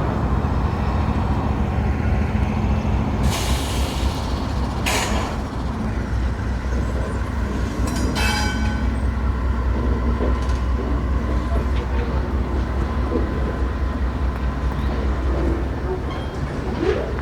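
Diesel train rumbling past with a steady low engine drone. Several short hissing bursts come about three, five and eight seconds in.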